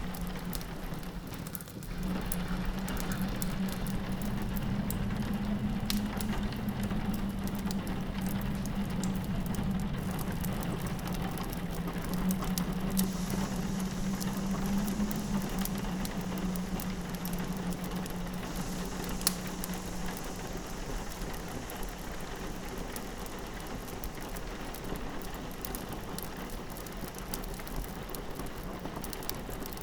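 Wood fire crackling with frequent small pops, over a steady patter of rain against a window. A low steady wind moan sits underneath and fades out about two-thirds of the way through.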